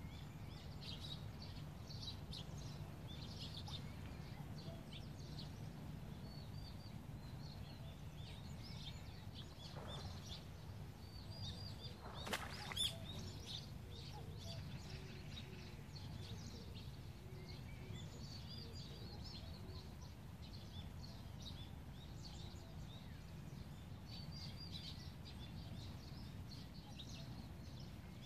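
Small birds chirping and calling on and off over a steady low background rumble, with two sharp clicks close together about twelve seconds in.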